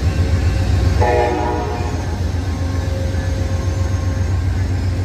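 Amtrak locomotive air horn giving one short blast about a second in, several notes sounding together as a chord, over the steady low rumble of the idling diesel locomotive.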